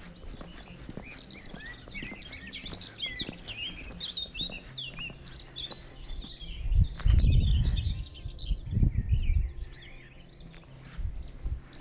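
Birds singing, with many quick chirps and warbled phrases overlapping. About six and a half seconds in, a loud low rumble lasts around three seconds.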